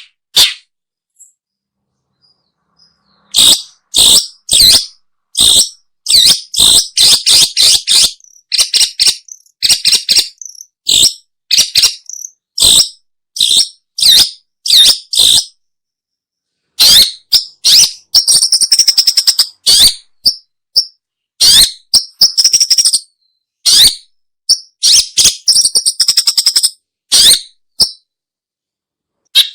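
Long-tailed shrike (pentet/cendet) calling: a long series of short, harsh calls, in places run together into rapid chattering, with dead silence between them.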